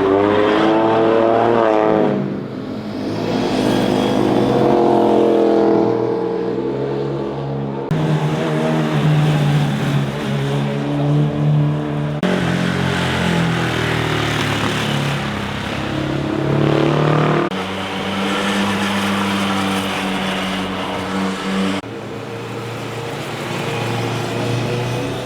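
Motorcycles passing one after another, engines revving up and down as they ride through corners. The sound cuts abruptly from one pass to the next about three times.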